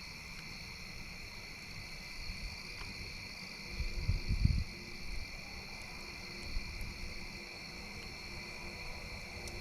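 Crickets or other insects trilling in a steady chorus, with a brief low rumble about halfway through.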